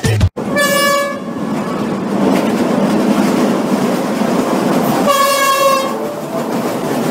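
Passenger train rumbling across a riveted steel truss railway bridge, with two blasts of the locomotive's horn, each under a second long: one about half a second in and another about five seconds in.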